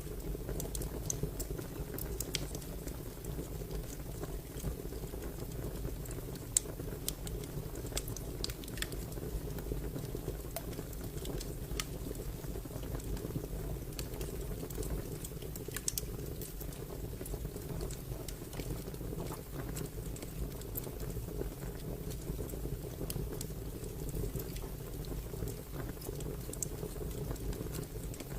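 Fire crackling: a steady low rush of flames with scattered sharp pops and snaps, one louder pop about six and a half seconds in.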